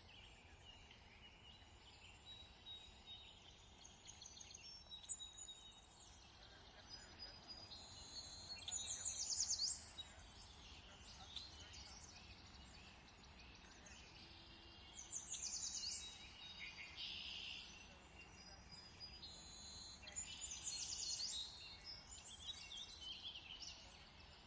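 Several small birds singing and chirping, with short rapid trills and tweets that come in bunches, loudest three times. A faint steady outdoor hiss lies under them.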